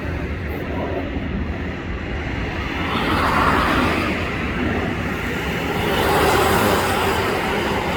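An Asiana Airlines jet airliner passing overhead: a steady rushing noise over a deep rumble that swells about three seconds in and again near six seconds, growing hissier at the second peak.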